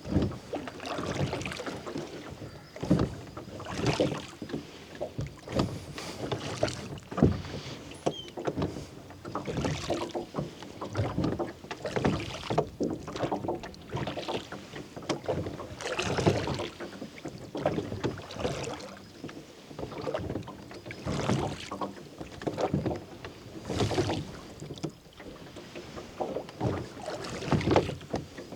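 Rowboat oars pulling through lake water in a steady rhythm, a splashing stroke about every two seconds.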